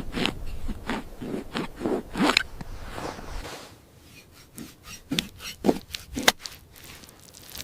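Irregular scraping and knocking strokes, about a dozen short ones, with a low rumble beneath that stops about three and a half seconds in.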